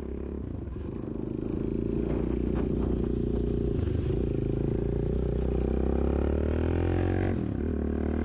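Suzuki DRZ400S single-cylinder four-stroke engine running under way, getting louder over the first couple of seconds and then pulling steadily. About seven seconds in, the engine note dips and recovers.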